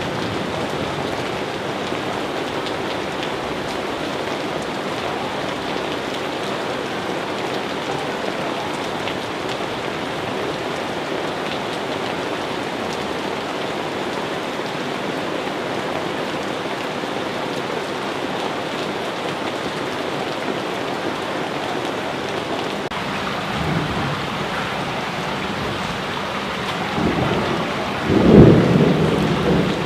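Steady rain falling, with rolls of thunder rumbling up near the end.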